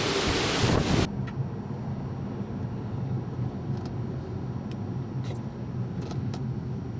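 Hurricane wind rushing against the microphone for about the first second, then cut off abruptly. After it comes a steady low hum with a few faint clicks.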